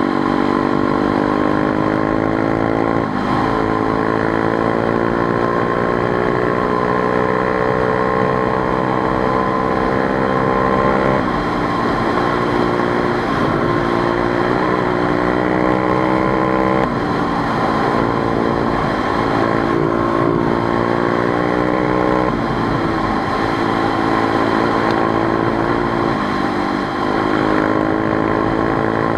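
Motorcycle engine running under way, its note climbing slowly and dropping abruptly several times as the ride goes on.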